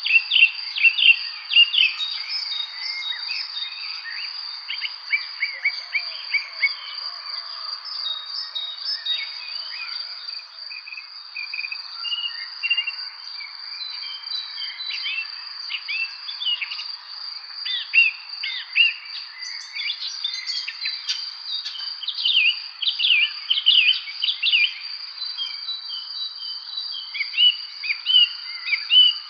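Evening spring bird chorus: many short chirps and trills from several birds, busiest near the start and again in the last third, over a steady high insect trill that runs without a break.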